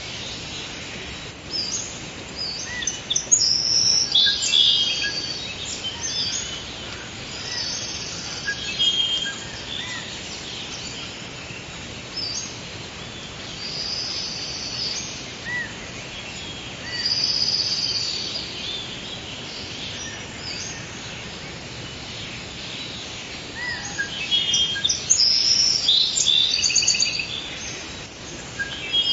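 Forest birdsong: several birds chirping and trilling in bursts over a steady background hiss.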